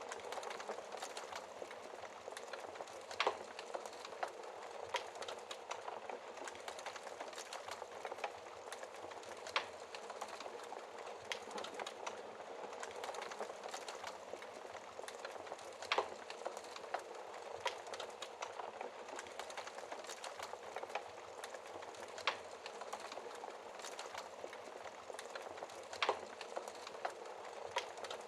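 Fire burning behind a glass screen: a steady hiss of flame with constant small crackles and a sharper pop every few seconds.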